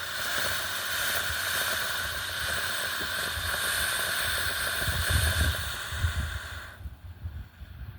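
"Neon Dream" consumer fireworks fountain spraying with a steady hiss, which cuts off suddenly about seven seconds in as the fountain burns out. Some low rumbling runs under the hiss in its last couple of seconds.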